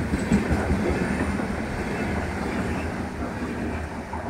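Passenger train coaches passing at speed close by: a steady rumble with the clatter of wheels on the rails, starting to fade near the end as the last coach goes by.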